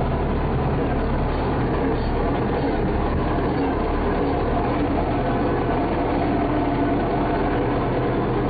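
Motor vehicle engine running steadily with road noise, a constant low hum with no change in pace.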